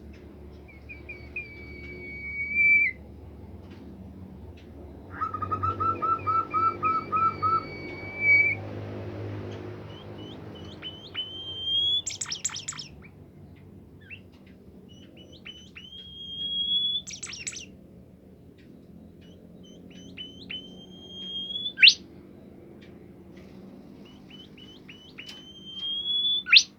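A songbird, the bird Indonesian keepers call 'bimoli', singing loudly: whistled phrases, a quick run of about nine repeated notes about six seconds in, then several rising whistles that each end in a sharp upward flick.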